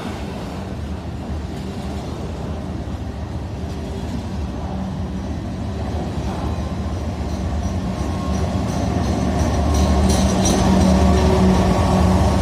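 CSX freight train rolling past with a steady rumble of steel wheels on rail as its double-stack container cars go by. From about eight seconds in, the diesel engines of mid-train locomotives grow louder as they draw alongside, adding a steady engine drone.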